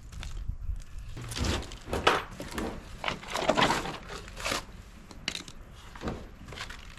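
Plastic packaging crinkling and rustling in irregular bursts as the small hardware bag for the Tesla Wall Connector is handled and opened.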